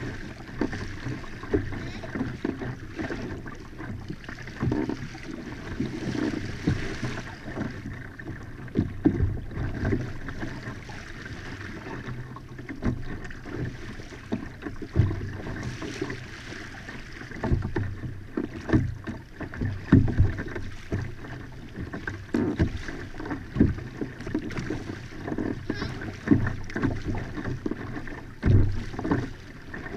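Water splashing and lapping against a Hobie Outback pedal kayak's hull as it moves along, with irregular knocks and bumps on the hull.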